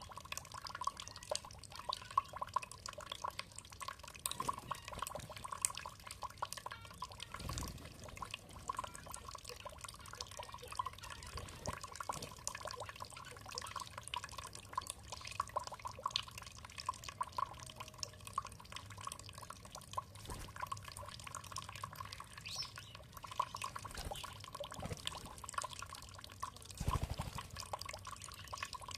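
Water trickling and dripping steadily, with many small irregular drips and splashes.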